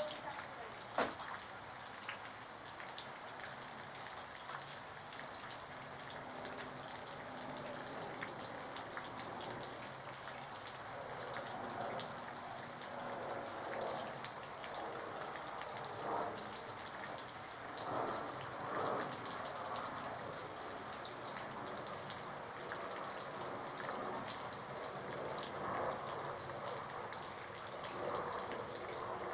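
Rain falling steadily, with many small drop ticks and a few louder swells now and then.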